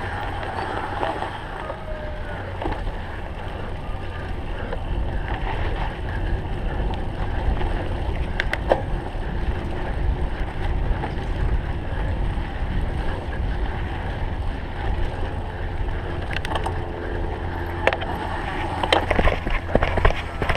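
Wind rushing over the microphone and the steady rumble of a cyclocross bike ridden over rough ground. Sharp clicks and rattles come more often near the end.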